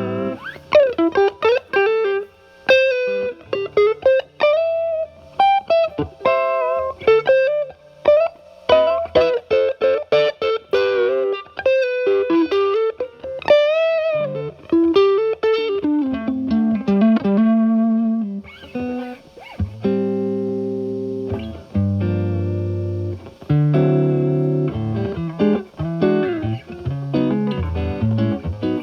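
Electric guitar, a Stratocaster with single-coil pickups, through a Timmy transparent overdrive pedal into a Marshall Valvestate amp's clean channel, the low-gain overdrive cleaned up. Single-note lead lines with string bends, then chords and held low notes from about two-thirds of the way in.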